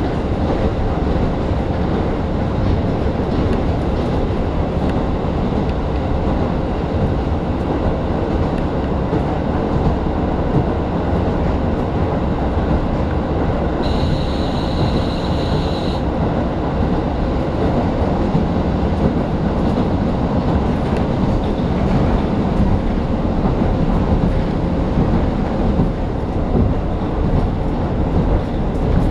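A local diesel railcar running at speed, heard from inside the passenger cabin: the steady rumble of the engine and the wheels on the rails. About halfway through, a high-pitched tone sounds briefly over it.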